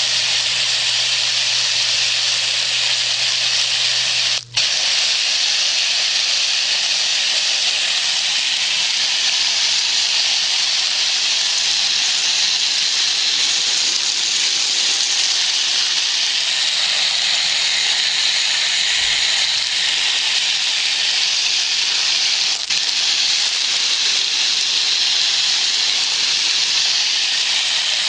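Hose sprayer hissing steadily as it sprays wash onto a muddy horse's coat, with a short break about four and a half seconds in.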